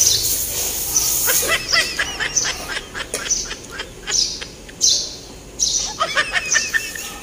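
Small birds chirping, in several quick runs of short rising-and-falling notes with sharp high calls in between.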